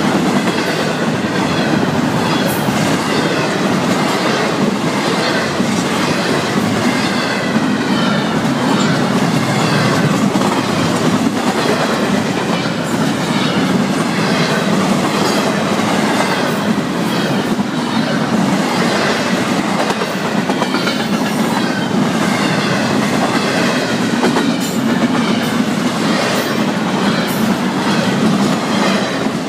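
Freight train's double-stack intermodal well cars rolling past close by: a steady, loud wheel-on-rail rumble with frequent clicks as the wheels pass over rail joints.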